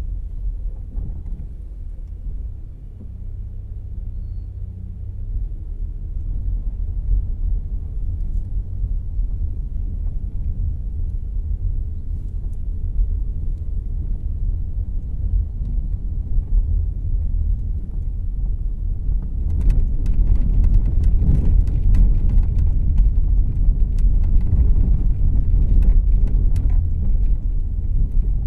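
Inside the cabin of a Volkswagen Jetta Clásico on the move: low engine and road rumble. About two-thirds of the way through it gets louder, with a run of sharp clicks and rattles over the rumble.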